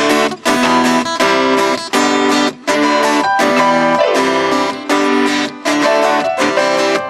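Acoustic guitar strumming chords in a steady rhythm, playing the intro to a song before the singing comes in.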